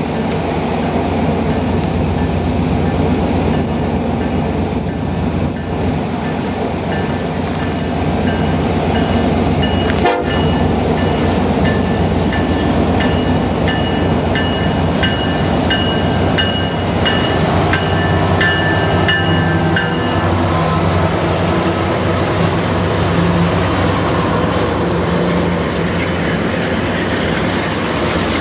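A freight train led by two diesel locomotives, an EMD SD70M-2 and a GE C40-8W, approaches and passes with a continuous heavy rumble. The locomotive horn sounds in the middle stretch and cuts off just after the lead units pass, and the engines' low drone comes and goes. Double-stack container cars then roll by with steady wheel-on-rail noise and a thin high whine.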